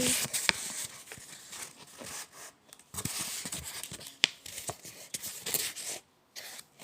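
A sheet of A4 paper being handled and folded: irregular rustling and crinkling with a few sharp crackles as the paper is pressed into a crease.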